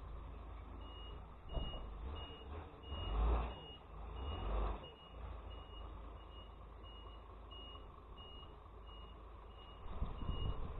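Glass-recycling truck's reversing alarm beeping steadily, about two beeps a second, over the truck's engine rumble, which swells a few times as it backs up.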